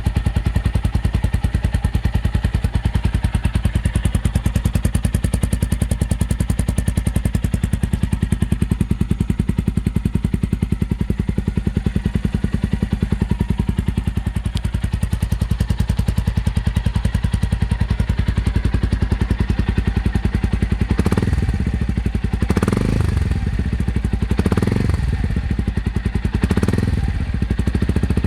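Suzuki Grasstracker's single-cylinder four-stroke engine idling steadily through a Hurricane Fat Boy aftermarket muffler. Near the end the throttle is blipped four times in quick succession, each a short rev before it drops back to idle.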